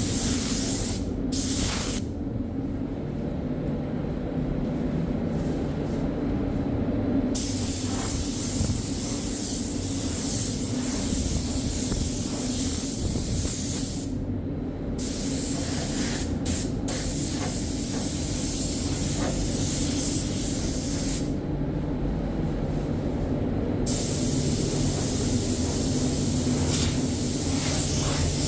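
Spray gun hissing as it lays bodywork primer onto bare sandblasted metal. The spray stops for a few seconds about two seconds in, briefly near the middle, and again for a couple of seconds about three-quarters through, with a steady low hum running underneath.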